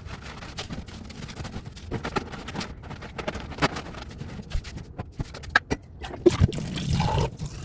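Kitchen handling noise as groceries are put away: a string of knocks and clicks of containers and packaging being moved, with a denser rustling stretch near the end.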